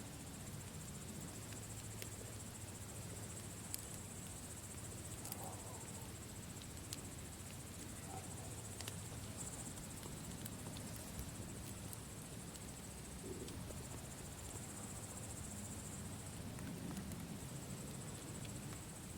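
A campfire crackling, with a low rumble and scattered sharp pops, over a steady high chorus of chirping crickets.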